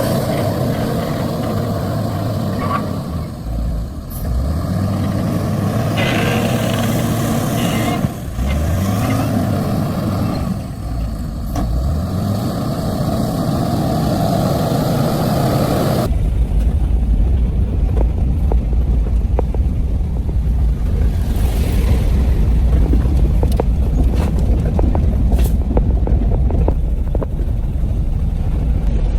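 A heavy vehicle's engine running, revving up a couple of times in the first half. About halfway through it changes abruptly to a steady low rumble.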